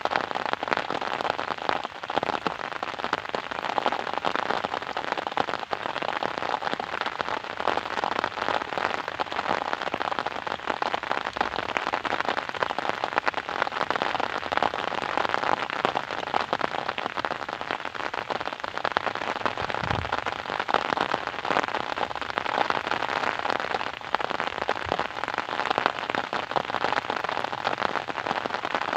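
Steady rain falling, a dense even hiss full of the small ticks of individual drops striking a surface.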